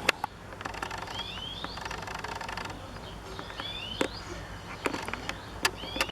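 Garden songbirds singing: short curving whistled notes repeated every second or two, with a fast chattering trill early on, and a few sharp clicks standing out above them.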